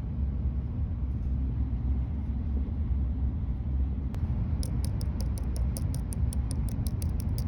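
Steady low rumble of a Shinkansen train heard from inside the passenger cabin. A little past halfway, a run of fast, even ticks starts, about four a second.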